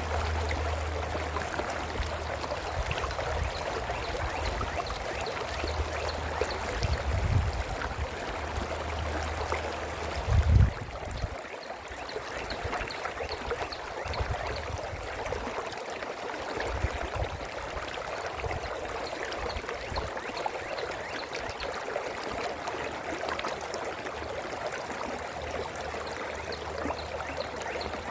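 Brook babbling steadily over stones. A low rumble comes and goes underneath, with its loudest bump about ten seconds in.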